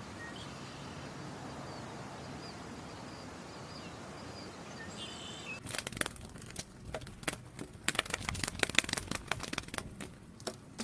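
Faint bird chirps over a steady background hiss, then from about halfway a dense, irregular run of sharp clicks and rustles.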